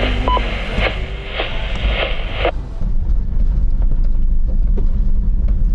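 Hiss of a two-way radio transmission that cuts off abruptly about two and a half seconds in, over the steady low rumble of a vehicle driving on the trail.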